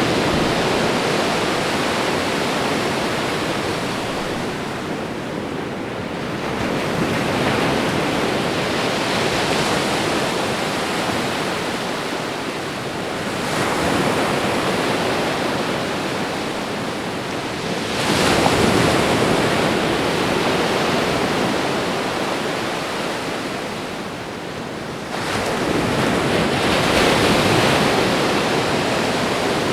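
Ocean waves breaking on a shore: a continuous wash of surf that swells and ebbs, with a new wave surging in every five to seven seconds.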